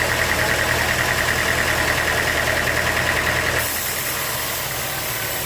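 Sawmill machinery running steadily: a low hum with a fast pulsing whine. About three and a half seconds in, the hum and whine cut off abruptly and a higher, steadier hiss takes over.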